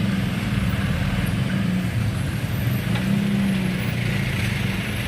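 Heavy road vehicle engines running steadily in a low, continuous drone.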